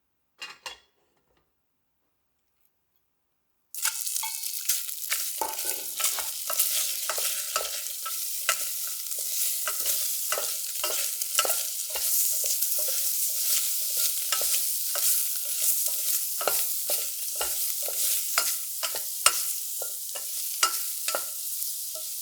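Food frying in a hot pot and being stirred: after a few seconds of near silence, sizzling starts abruptly and goes on steadily, with frequent short clicks and scrapes from the stirring utensil.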